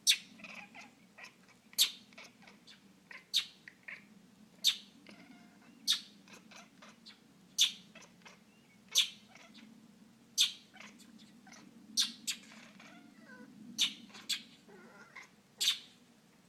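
A northern mockingbird scolding with loud, harsh single chack calls, about one every second and a half. Between them a house cat chatters at the bird, with softer rapid chirps and twitters: the excited hunting chatter of a cat watching prey it can't reach.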